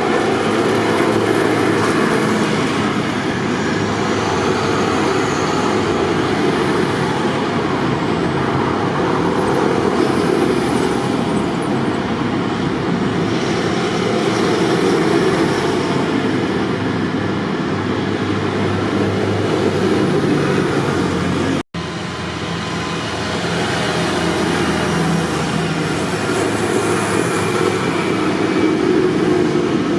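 Tractor engines running steadily as tractors travel along the road, a continuous rumble with engine hum. The sound cuts out for an instant about two-thirds of the way through, then carries on.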